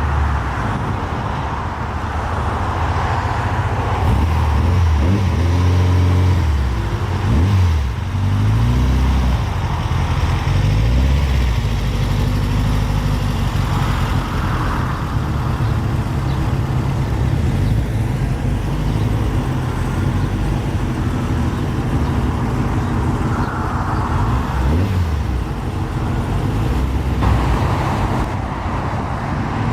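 Car engines running at low speed with a deep rumble, the engine pitch rising and falling several times in the first half.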